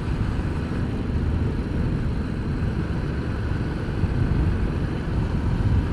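Ducati Multistrada motorcycle riding at a steady speed: a continuous engine and road rumble mixed with wind rushing over the rider's microphone.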